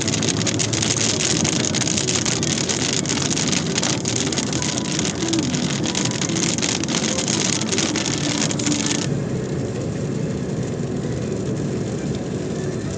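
Storm rain and wind: a loud, steady hiss with a dense crackle of drops over a low rumble, and the hiss loses its sharpest top about nine seconds in.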